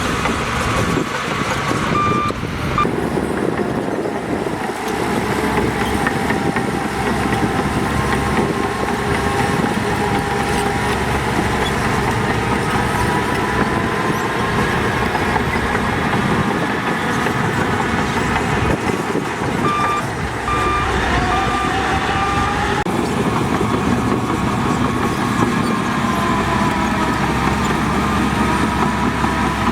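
Heavy diesel earthmoving machinery running steadily under load, the engine note rising and falling slowly. A reversing alarm beeps briefly about 2 s in, then again in a run of beeps about two-thirds of the way through.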